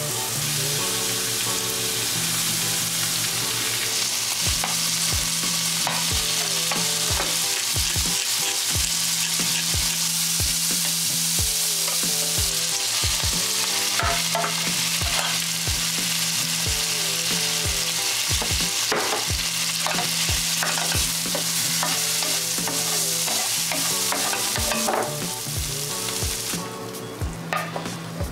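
Tomato and egg stir-fry sizzling in a hot oiled pan while being stirred, with a utensil scraping and knocking against the pan about once or twice a second. The sizzling thins out near the end.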